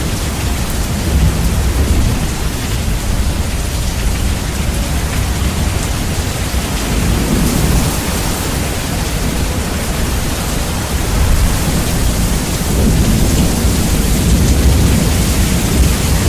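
Steady rain with thunder rumbling, bass-boosted so that the low rumble is very loud.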